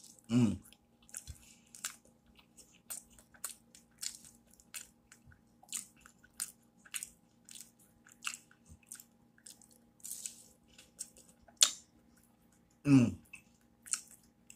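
Close-miked mouth sounds of a person chewing a bite of grilled cheese and pepperoni sandwich: irregular soft crackly clicks and smacks. A short voiced sound falling in pitch comes about half a second in and again near the end.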